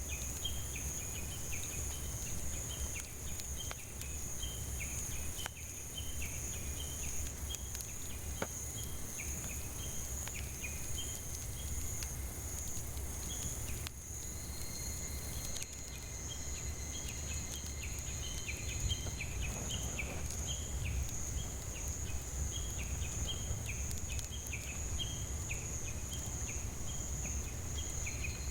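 Cicadas buzzing in a steady high-pitched drone, with a second call of short chirps repeating in quick runs that pause briefly around the middle. A few faint sharp crackles from a wood campfire.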